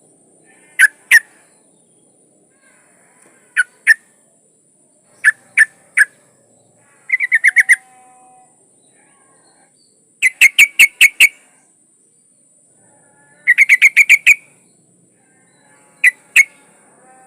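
Yellow-vented bulbul (trucukan) calling: short, sharp chirps, some in pairs and some in fast runs of six to eight notes, with gaps of one to two seconds between groups. Said to be a female calling for a male. A faint, steady, high-pitched whine runs underneath.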